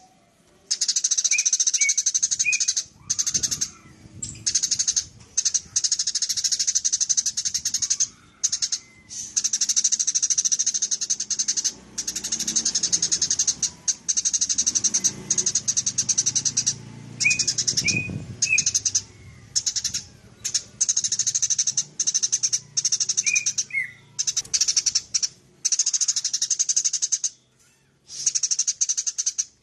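Eurasian tree sparrows chattering rapidly and continuously in dense runs of several seconds each, broken by short pauses, with a few separate chirps in between.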